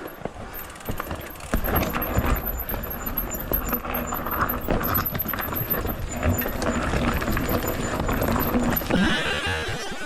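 A hiker's footsteps and gear jangling while walking a mountain trail, with a low rumble over the microphone that gets louder about a second and a half in.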